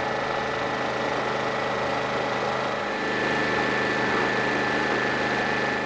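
Classic racing motorcycle engine running at a steady idle, with a slight change in its note about three seconds in.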